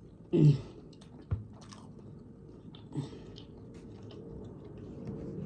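Close-miked chewing and mouth sounds of a person eating, with a short voiced 'mm' about half a second in and a sharp click a little after one second.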